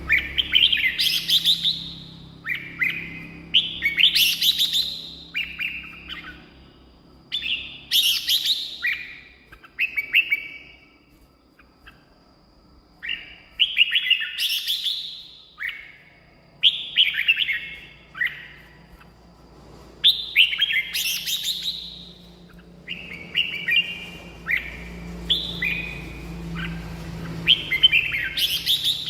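Red-whiskered bulbul singing: short bright warbled phrases, about eight of them, repeated every few seconds with brief pauses between.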